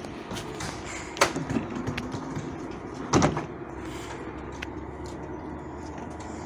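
Light-rail train car stopped at a station: a steady low rumble with two sharp clunks, about a second in and again about three seconds in.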